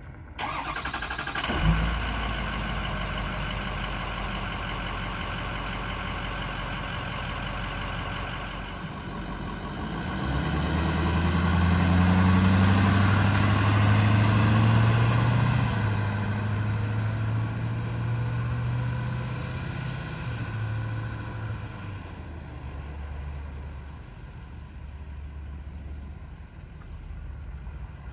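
Ford 6.0L Power Stroke V8 turbo-diesel cranking and catching about a second and a half in, then idling steadily. From about ten seconds in it runs faster and louder for roughly ten seconds, then drops back to a quieter idle.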